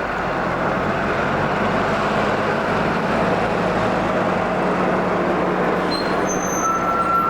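Heavy vehicle engine running steadily. A single high, steady squeal begins near the end.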